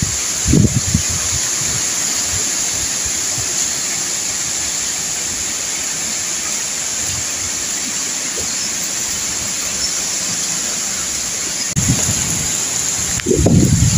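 Strong typhoon wind rushing steadily through palm trees. Gusts buffet the microphone with low rumbles about half a second in and again near the end.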